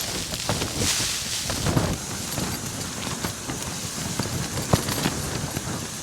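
Gale-force wind buffeting a small backpacking tent, the fabric rustling and flapping in gusts, with a strong gust about a second in. A few sharp clicks and knocks of gear being handled inside the tent.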